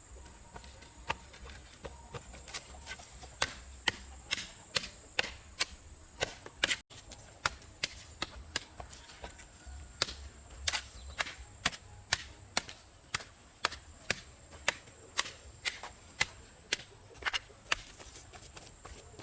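Repeated sharp strikes of a hand tool, chopping or hacking at something, in a steady rhythm of about two blows a second that sets in a couple of seconds in.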